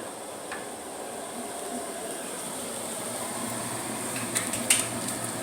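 Tofu pieces shallow-frying in hot oil, a steady sizzle, with a few light clicks near the end.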